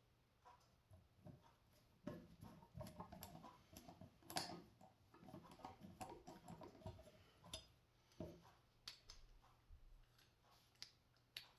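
Faint, scattered clicks and light metal taps from scissors being handled and put back together at the pivot screw, with one sharper click about four seconds in.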